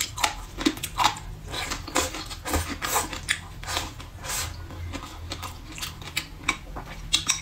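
Chewing and biting crunchy shredded green papaya, with crisp, irregular crunches several times a second.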